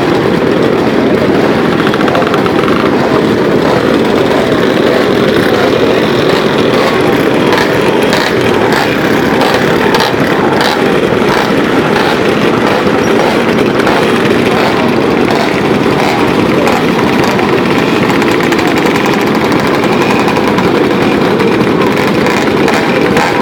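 Motorcycle engines running loudly and steadily, with scattered sharp pops and crackles, thickest in the middle stretch.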